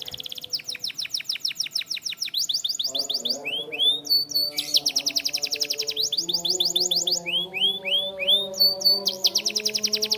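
Canary singing: fast trills of rapidly repeated high notes in runs of a second or two, broken twice by a few slower upswept whistles.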